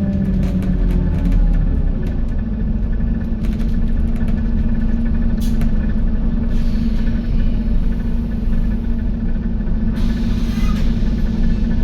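Inside a Scania N280UD double-decker bus under way: steady diesel engine drone and road rumble, with scattered short rattles from the bodywork.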